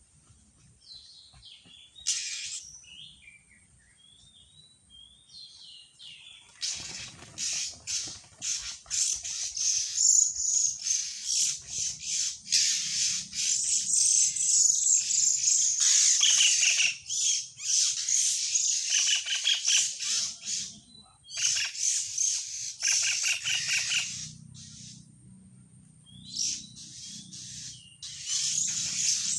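Birds chirping and squawking in rapid, high-pitched calls: a few scattered calls at first, then a dense, continuous burst of chattering through the middle, easing off briefly near the end before picking up again.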